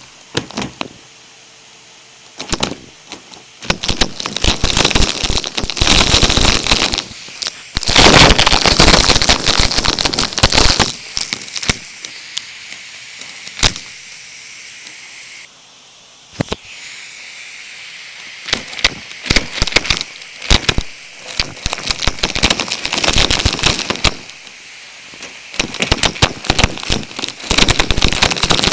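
Numatic cylinder vacuum cleaner picking up debris: repeated bursts of dense crackling and rattling, each a second or a few long, as bits are sucked through the clear tube, over a steady suction hiss that drops in level about halfway through.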